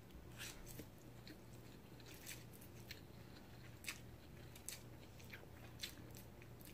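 Faint chewing of a big mouthful of noodles: soft, scattered wet mouth clicks.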